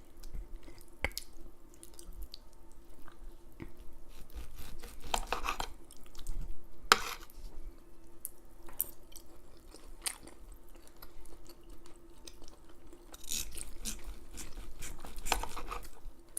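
Close-miked chewing and wet mouth sounds of a person eating, with scattered short clicks and smacks, over a faint steady hum.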